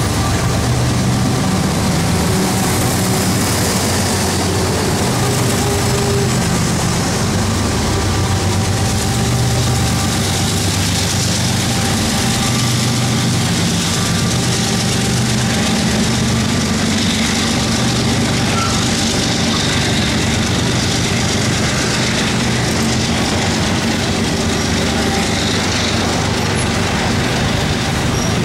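CSX freight train passing close by: a diesel locomotive's engine going past, then a long string of container flatcars rolling by with steady, loud wheel-on-rail noise.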